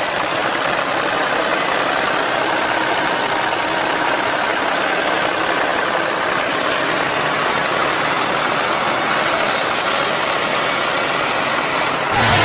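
Tractor engine running steadily, heard as a dense, noisy drone. Near the end it cuts abruptly to a deeper, more clearly pitched engine sound.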